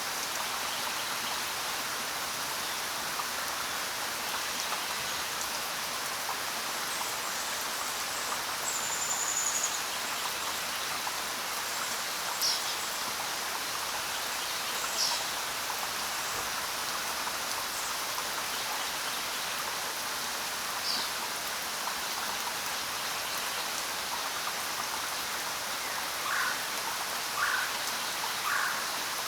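Steady rain falling, with a few short bird chirps scattered through it and three lower, quick calls near the end.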